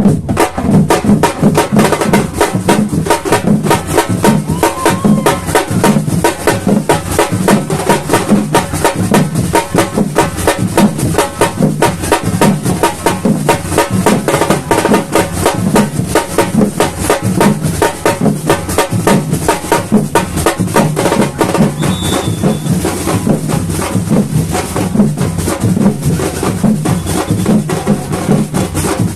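Samba batucada drumming: a full drum section playing a fast, steady groove of dense, evenly repeating strokes, with deep drum beats under sharp higher hits.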